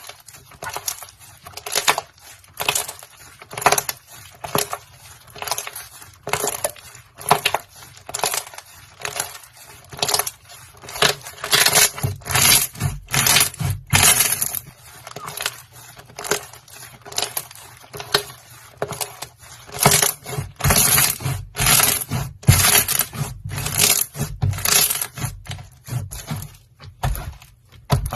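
Slime being squished and pressed, making short crackling, popping squelches that repeat about once or twice a second.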